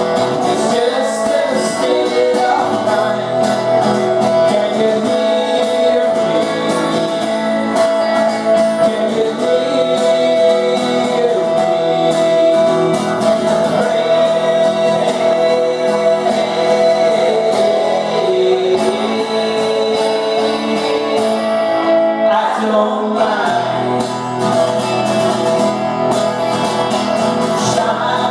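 Live acoustic performance: strummed guitars with a male voice singing.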